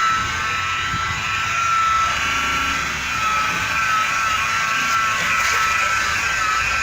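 Electric car polishing machine running at speed with a steady high whine that wavers slightly in pitch, as in paint polishing to a mirror finish.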